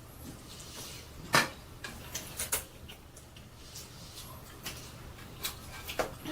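Scattered light clicks and knocks of utensils and food containers being handled while eating, the loudest about a second and a half in, over a faint steady hum.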